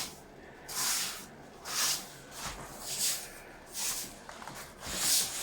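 Repeated swishing, scraping strokes, about one a second, of brick rubble and dust being cleared up from the floor by hand.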